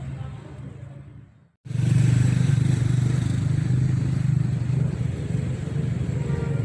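A steady low engine rumble that fades to a moment of silence about one and a half seconds in, then comes back suddenly and louder.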